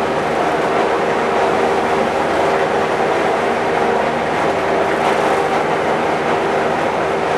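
A steady machine drone: a hum of several held tones under an even rushing noise, unchanging in level.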